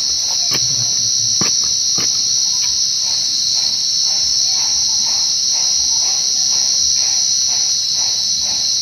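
Crickets singing in a steady, unbroken high-pitched trill. A few sharp clicks come in the first two seconds.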